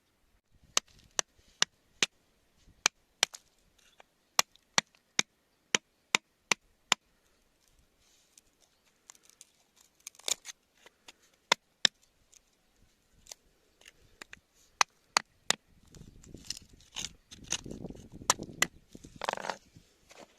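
Hand tool tapping on rock in a run of sharp, separate strikes, about two or three a second with short pauses. Near the end the strikes give way to scraping and rustling.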